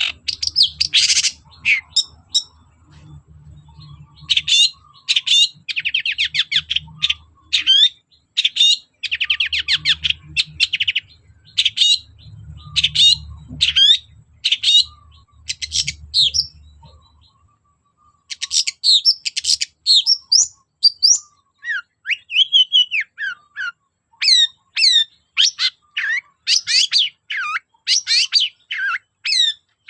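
Long-tailed shrike (cendet) singing rapid runs of short, sharp notes and trills in quick succession, with a brief pause a little past halfway. A faint low hum lies under the first half.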